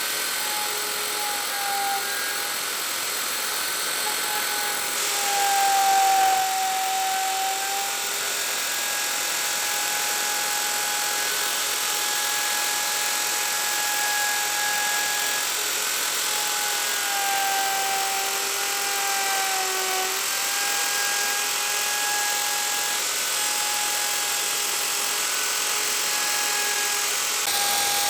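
Electric power tool running with a steady high motor whine over a hiss. Its pitch sags briefly twice, a few seconds in and again past the middle, as the tool is pressed into the wood.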